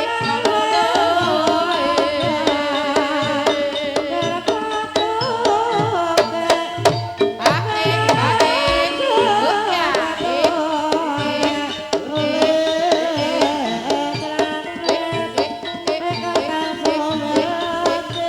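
Gamelan music for an ebeg hobby-horse dance: hand drums play quick, busy patterns under ringing tuned percussion and a wavering melody line.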